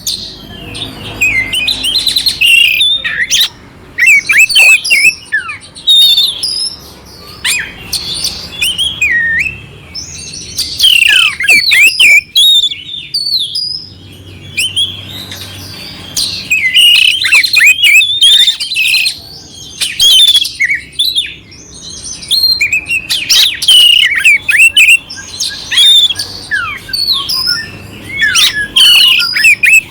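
Oriental magpie-robin (kacer) singing a loud, clear, varied song with rough, harsh notes mixed in. It sings in rapid phrases of whistled notes that rise and fall, lasting a few seconds each and broken by short pauses.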